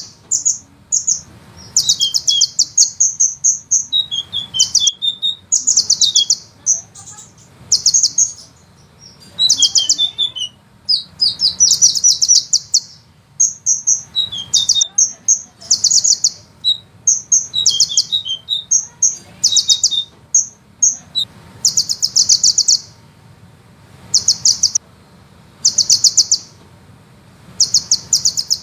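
Sunbird song: rapid high-pitched rolling trills in bursts of about a second, repeated every second or two, with short falling notes in between.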